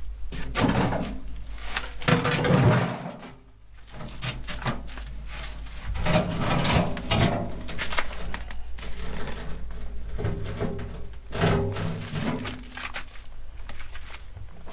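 Irregular knocks and scrapes of stones and tools being handled in masonry work, with a steady low hum underneath.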